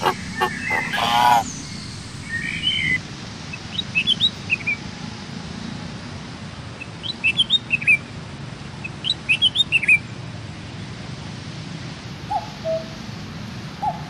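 Birds calling in the open: a few loud calls in the first second and a half, then three quick runs of high chirps a few seconds apart, and a few lower short calls near the end. A steady low hum lies underneath.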